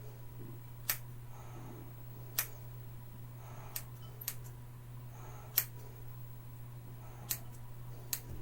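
Hair-cutting scissors snipping hair, about seven sharp single snips at irregular intervals, over a steady low hum.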